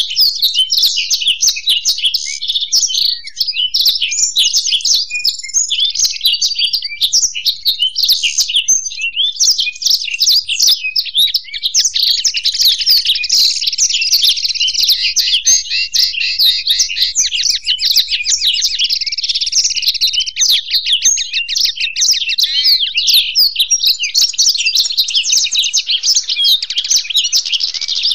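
Blackthroat and goldfinch singing without a break in rapid, twittering phrases. Near the middle there is a long, fast trill of evenly repeated notes.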